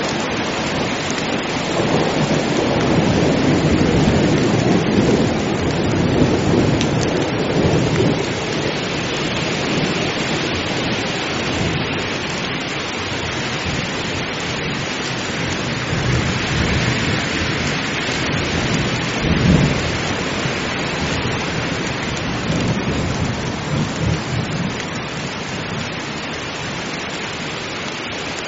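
Heavy rain falling steadily, with low rolling thunder that swells in the first several seconds and again past the middle, then eases off near the end.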